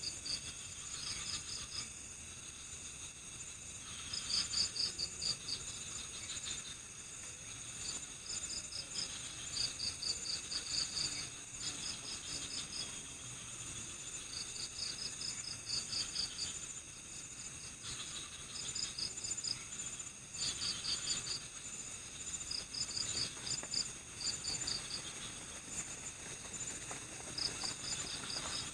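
Crickets chirping at night: short chirps of a few quick pulses each, repeating every second or two, over a steady high-pitched insect drone.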